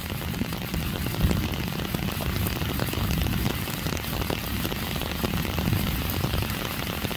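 Moderate to heavy rain falling steadily: a continuous hiss of drops with a low rumble underneath.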